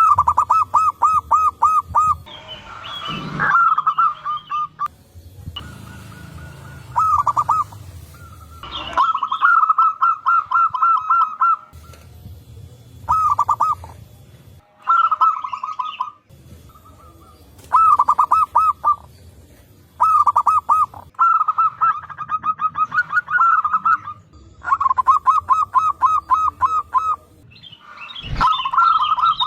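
Zebra doves (perkutut) cooing in repeated bouts of quick, evenly spaced staccato notes, several birds answering one another, with short pauses between bouts.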